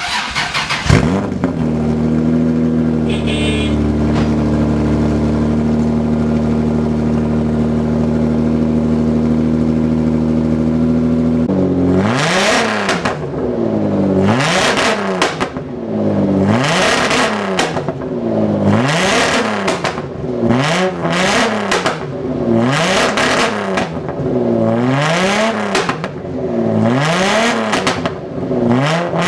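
Toyota 2JZ inline-six firing up through a freshly welded fart-can muffler on a cut-down straight exhaust. It settles into a loud, steady idle, then is revved over and over, a rev about every two seconds.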